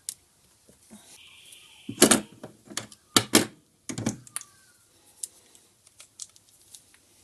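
Small plastic parts clicking and knocking as the gear and pin of a headlight adjuster are fitted back into its plastic gearbox housing: a run of sharp clicks, the loudest clustered about two to four seconds in.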